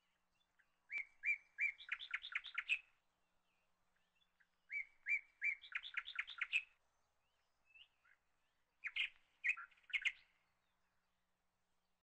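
A songbird singing: a phrase of three even notes followed by a quick run of notes, given twice, then a shorter burst of notes near the end.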